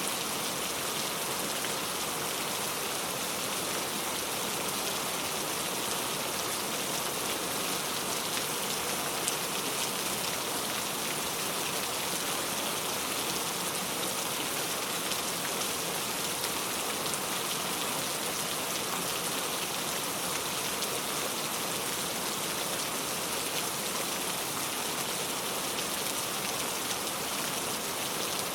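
Heavy rain falling steadily, a dense even hiss of drops on surfaces with faint scattered patters.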